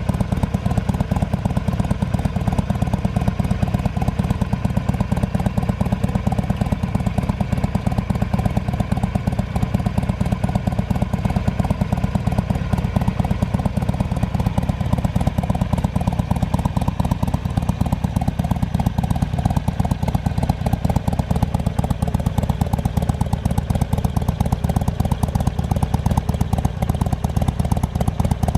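Harley-Davidson 883R Sportster's air-cooled V-twin idling steadily through aftermarket Freedom Performance slip-on mufflers, a loud, even, low exhaust pulse with no revving.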